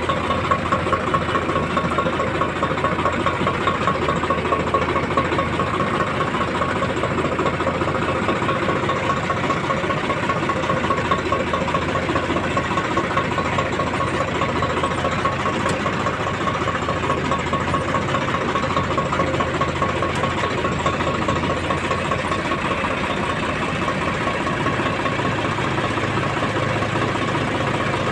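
Tractor diesel engine running steadily, an even rapid chugging with a constant high tone in it.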